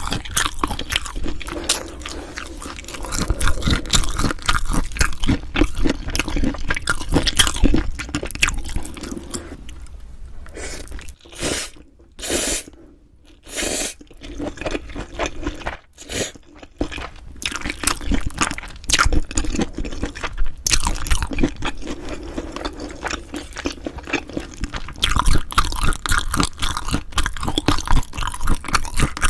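Close-miked chewing of food, many irregular wet clicks and crunches; a quieter stretch about a third of the way in is broken by a few short sharp sounds before the chewing picks up again.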